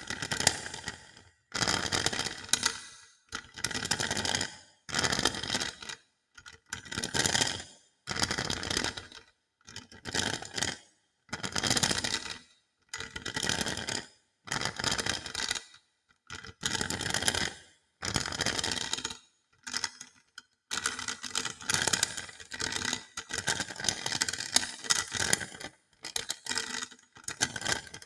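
Hodo balls being rattled and rolled against each other as an ASMR trigger: clattering, scraping bursts about a second long, one after another with short pauses. Over the last few seconds the rattling becomes nearly continuous.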